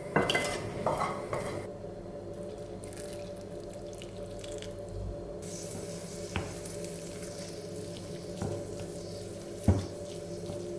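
Kitchen water sounds: water running and dripping at a sink, with clattering in the first second or so and a few sharp knocks later on.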